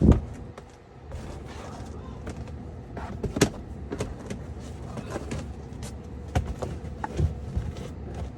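Handling an all-weather floor mat in a car's footwell: a heavy thump at the start, then scattered knocks and rustling as the mat is shifted into place.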